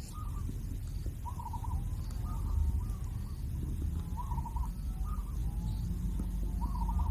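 Kingfisher chicks calling: short, rattly calls repeating every second or two, over a low rumble.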